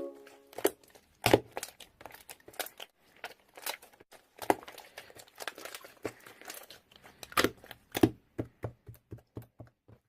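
Irregular crinkling and clicking from something being handled, ending in a quicker run of clicks near the end.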